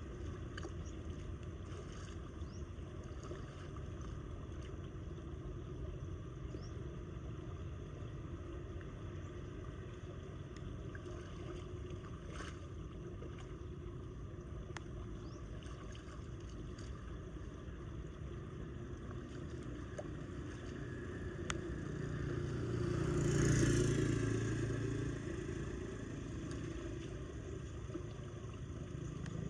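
Steady low rush of floodwater pouring into a storm drain, with scattered faint clicks. About three-quarters of the way through, a louder whoosh swells up and fades away over a few seconds.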